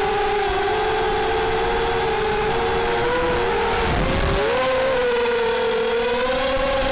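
Brushless motors and propellers of a 250-size FPV racing quadcopter (RcxH250, 4S) whining in flight, the pitch shifting with the throttle. About four seconds in the whine dips and swoops back up with a burst of wind rumble, then climbs again near the end.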